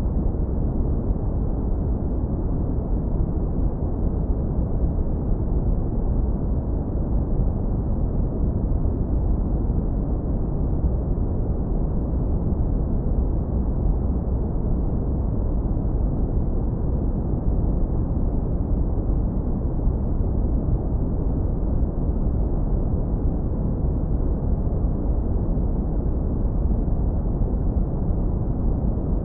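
Steady, deep brown noise, heavily low-pass filtered so that only a warm low rumble remains, with nothing above the upper mids. It holds an even, constant level with no changes or events.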